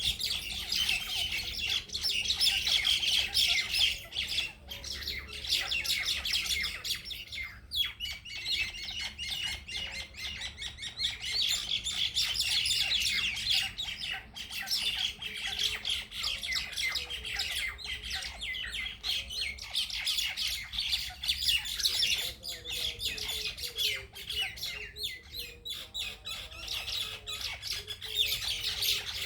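A group of birds squawking and chattering in a dense, continuous overlapping din of harsh calls, the noise of birds squabbling.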